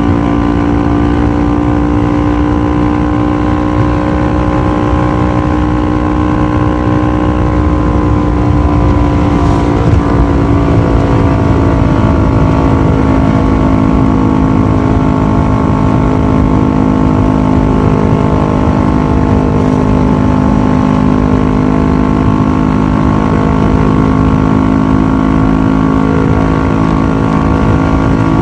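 Kawasaki ER-6f's 649 cc parallel-twin engine through a full Akrapovic exhaust, running at steady cruising revs as the bike is ridden. The pitch eases down a little about ten seconds in and then holds steady, over a constant low rumble.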